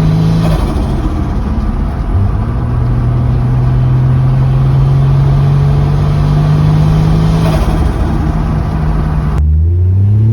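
Turbocharged Nissan Skyline engine pulling under boost, its pitch rising slowly over several seconds. Near the end the sound changes abruptly and the revs climb quickly again.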